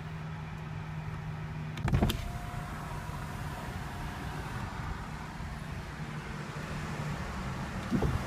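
Steady low hum inside a car cabin with a sharp click or knock about two seconds in, followed briefly by a faint thin whine, and another knock near the end.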